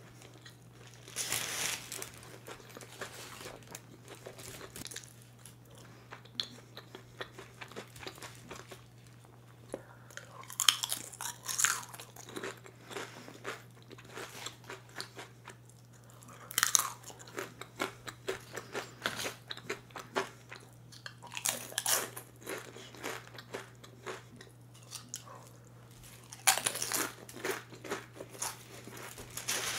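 Close-miked eating of barbecue potato chips: loud crunching bites in clusters every few seconds, with quieter chewing between.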